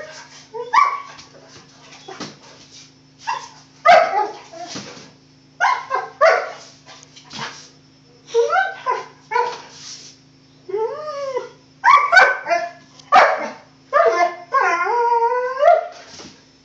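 Dog play-barking and yipping at a cat in many short bursts, with two longer wavering cries about eleven and fifteen seconds in.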